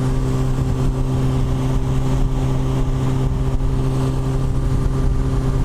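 Yamaha FJR1300's inline-four engine running steadily at a constant highway cruising speed, its hum holding one pitch, under a steady rushing noise.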